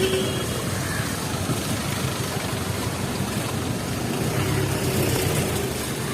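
Street traffic: a vehicle engine running close by over a steady hiss.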